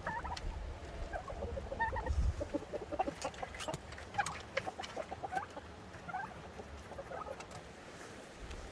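Chickens clucking: many short, scattered calls, with a few sharp taps among them.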